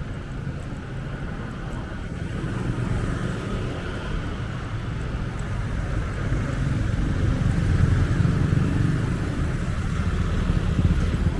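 Street traffic going by, a steady rumble of car and motorcycle engines that grows louder toward the end.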